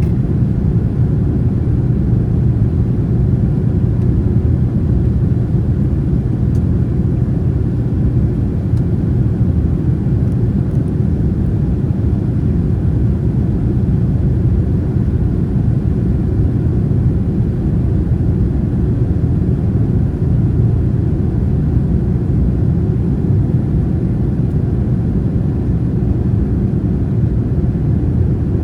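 Steady low rumble of a Boeing 787-9's jet engines, even in level throughout.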